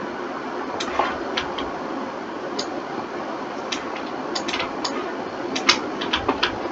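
Irregular clicks of a computer mouse and keyboard, a dozen or more at uneven spacing and several close together near the end, over a steady hiss.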